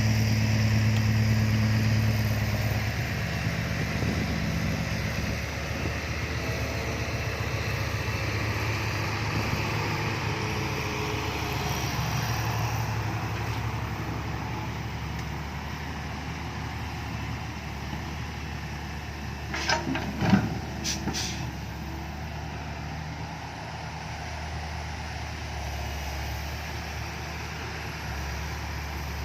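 Six-wheel dump truck's diesel engine running with a loud exhaust. It is loudest over the first few seconds and then eases off as it continues. A short cluster of sharp sounds comes about two-thirds of the way through.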